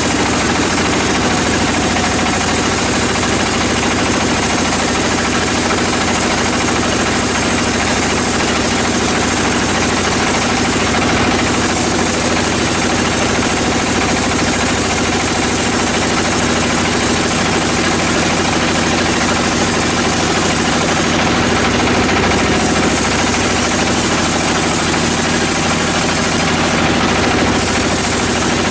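Sawmill machinery running steadily: a constant mechanical drone with an even high hiss over it.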